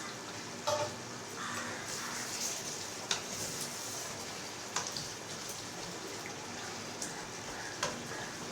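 Chicken curry cooking in the pan: a steady sizzle with a few short, sharp clicks scattered through it.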